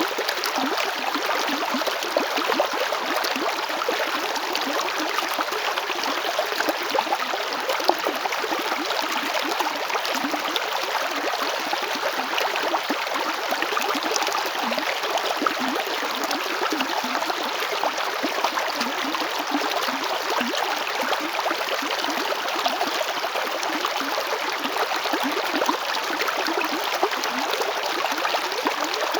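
River water flowing and gurgling over stones in a steady, even rush with small splashes throughout.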